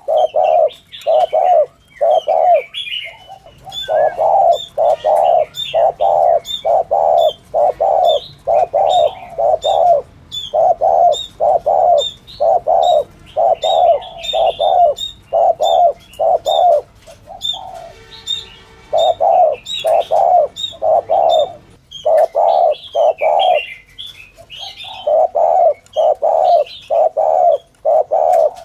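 Spotted dove cooing in fast, evenly repeated coos, about one and a half a second, in long runs broken by a few short pauses. This is the wild-type rapid 'thúc gù' cooing used to lure doves. Thin high chirps of small birds sound over it.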